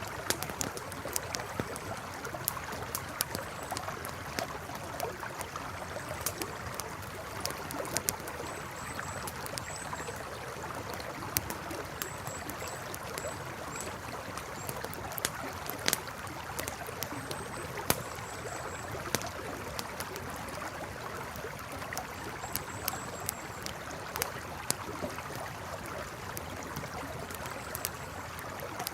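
Campfire crackling, with sharp irregular pops over the steady rush of a flowing river. Short runs of faint high chirps come and go.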